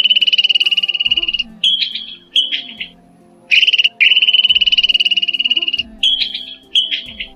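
An animal's high, rapid pulsed trill, given twice as a long trill followed by two short bursts, over soft background music.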